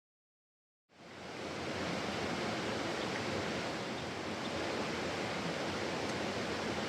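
Mountain stream rushing steadily. It fades in about a second in, after a moment of dead silence.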